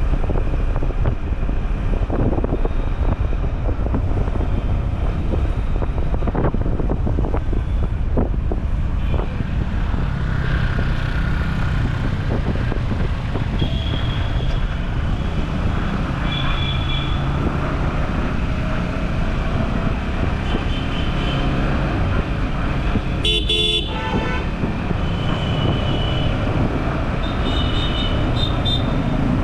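City traffic heard from a moving motorcycle: a steady low rumble of engines, road and wind, with vehicle horns tooting several times in the second half, the loudest about three quarters of the way through.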